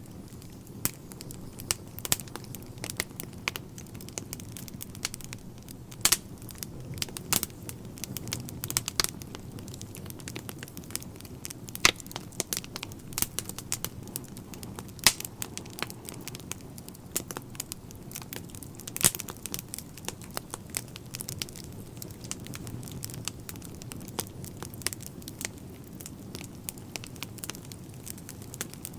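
Wood fire crackling in a fireplace: irregular sharp pops and snaps, a few louder ones, over a steady low rumble of the burning.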